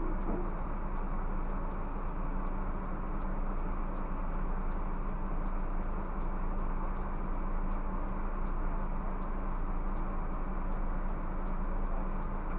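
Scania bus running with a steady engine hum and a constant low drone, unchanging throughout.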